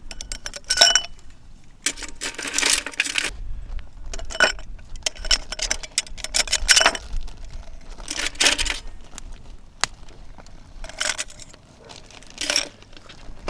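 Small hard objects, metal or glass camp tableware, clinking and rattling as they are handled, in irregular bursts. Some knocks ring briefly.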